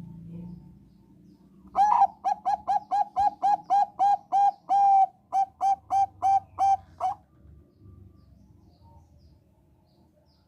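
Zebra dove of the Thai 'Bangkok' perkutut strain singing: a quick run of about eighteen short, clear coo notes, roughly three a second, beginning about two seconds in and stopping about seven seconds in.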